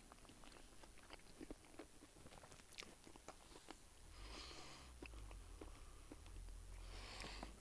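Faint eating sounds: a man chewing, with scattered small clicks of a metal latte spoon against a food pouch. Two short soft hisses, one about halfway and one near the end.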